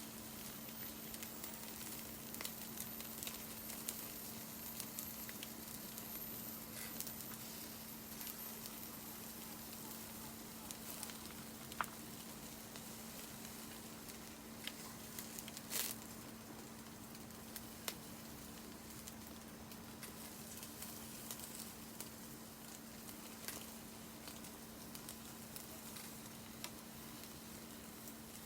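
Food sizzling over a wood campfire: a steady hiss with scattered small pops and crackles.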